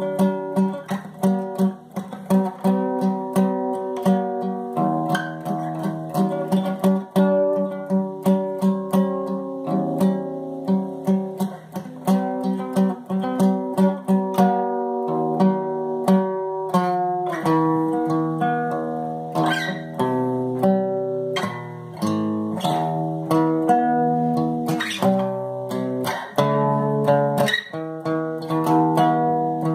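Acoustic guitar played solo, picked notes over a rapidly repeated bass note for about the first half, then moving to changing chords.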